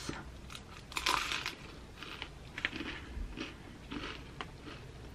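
Close-up mouth sounds of a person eating a tuna sandwich: a louder crunchy bite about a second in, then quieter chewing.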